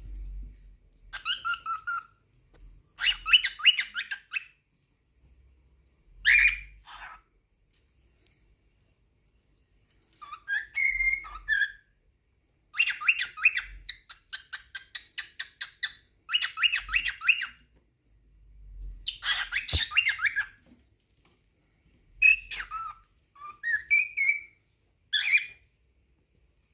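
Male cockatiel singing its courtship song: about ten short bouts of fast chattering warble mixed with whistled notes, separated by brief pauses.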